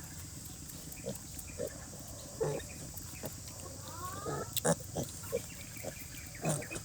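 Sow and piglets grunting in short, scattered grunts, with a brief rising squeal a little after four seconds in.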